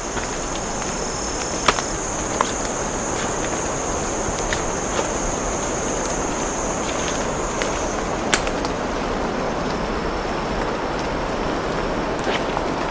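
An insect in the cloud forest holds a steady high-pitched drone that stops about eight seconds in, over a steady rushing background, with a few sharp clicks.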